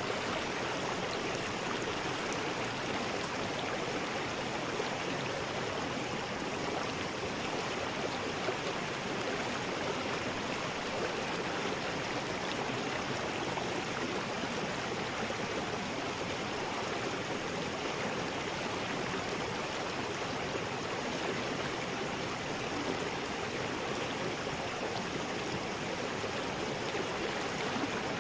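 River rapids rushing steadily, a constant even roar of water with no breaks or changes.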